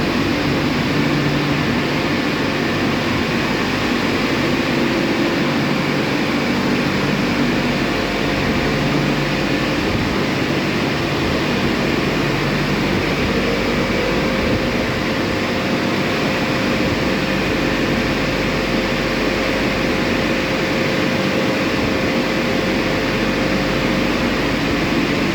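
Drying blowers of an Istobal M12+ rollover car wash running steadily, a constant rush of air with a faint steady whine.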